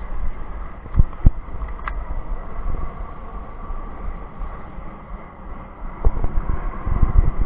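Wind buffeting the microphone, with a steady low rumble. Two short thumps come about a second in, and a run of low thumps near the end.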